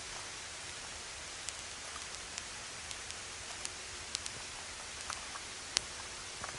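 Wood campfire crackling: a steady hiss with scattered sharp pops and snaps at irregular intervals, the loudest pop near the end.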